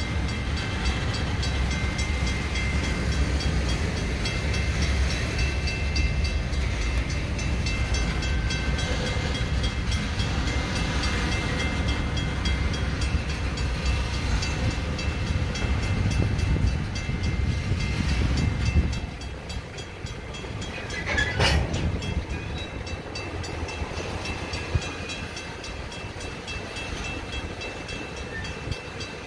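Freight train of covered hopper cars rolling past, a steady rumble and clatter of wheels on the rails. The rumble drops off about two-thirds of the way through, and a short sharper noise follows a couple of seconds later.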